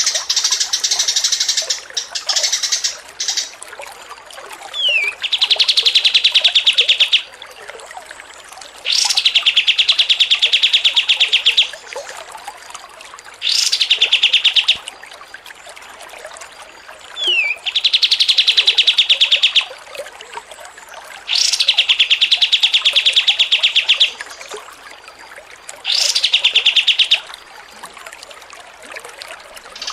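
Songbird singing in repeated loud bursts of very rapid trilling, each lasting one to three seconds and coming about every four seconds, a few of them opening with a short falling note.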